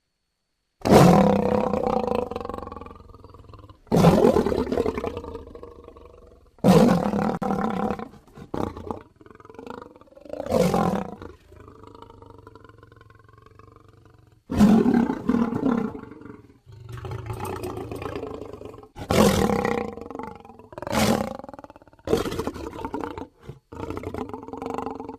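Lion roaring in a series of loud calls, each starting sharply and then fading away, the first coming about a second in after silence.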